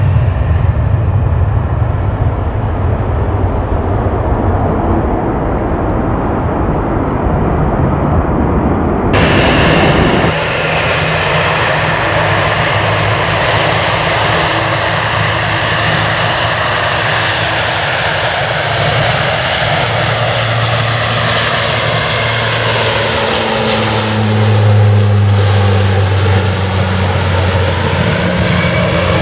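Jet airliner engines running at high power as the aircraft departs, a loud steady noise. The sound changes abruptly about nine seconds in, and later a slowly falling and rising tone sweeps through it as the aircraft passes.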